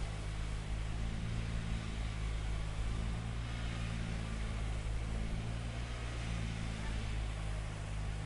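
A heavy machine's engine running steadily at an even speed: a constant low hum under a haze of site noise.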